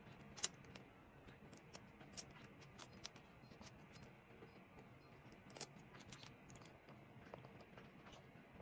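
Faint, irregular clicks and taps of paper, tape and small stationery being handled at a desk. A sharper click comes about half a second in and another a little past the middle.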